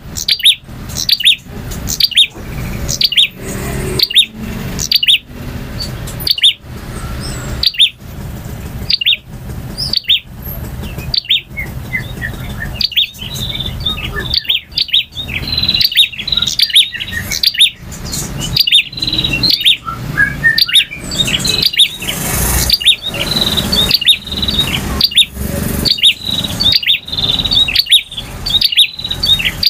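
Male prinia (prenjak) singing continuously: loud, sharp repeated chirps about twice a second, with rapid twittering notes mixed in.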